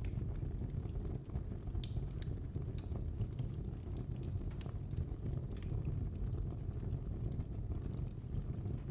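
Fire burning in a fireplace: a steady low rumble of flame with scattered, irregular sharp crackles and pops.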